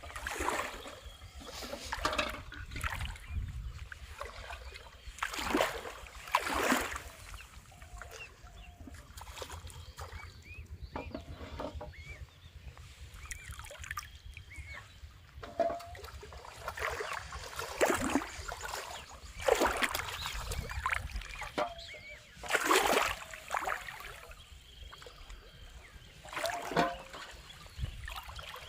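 Water splashing and sloshing in irregular bursts, with some trickling between them.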